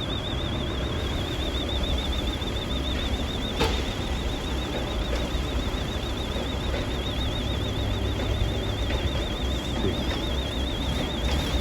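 Electronic alarm warbling without a break at a high pitch, wavering up and down a few times a second, over the steady low running of an engine. A single sharp click sounds about three and a half seconds in.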